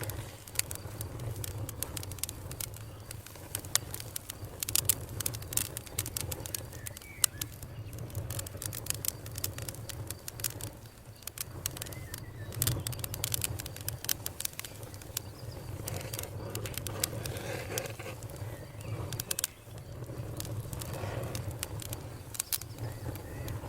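Campfire crackling: frequent irregular pops and snaps over a steady low rumble of burning.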